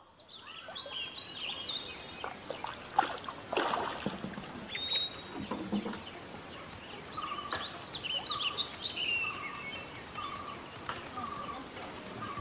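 Several wild birds chirping and calling, with one bird repeating a short note about twice a second in the second half. A couple of brief knocks sound about three seconds in.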